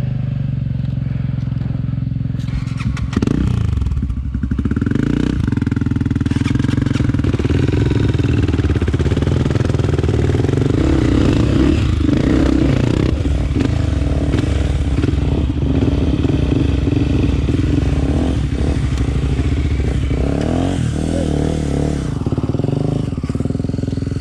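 Single-cylinder four-stroke dirt bike engine of a Honda CRF250F, heard from the rider's helmet. It runs at low revs, picks up about three seconds in, then rises and falls with the throttle as it rides on.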